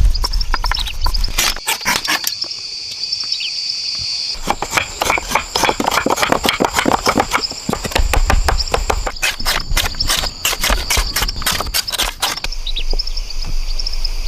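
A dense run of sharp knocks and clicks, like work on wood or bamboo, over a steady chorus of insects and birds; the knocking starts about a second and a half in and stops near the end.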